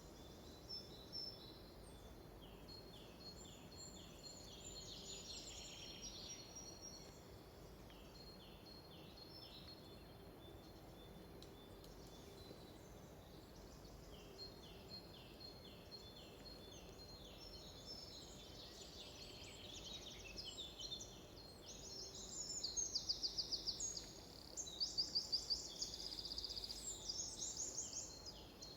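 Songbirds singing: series of short, repeated falling chirps, then louder fast trills in the last third. Faint steady background hiss underneath.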